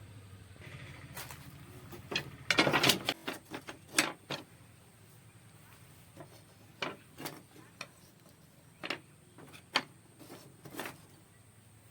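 Irregular knocks and clicks: a dense, loud cluster about two and a half seconds in, then single sharp taps every second or so, over a faint low hum that fades out in the first second.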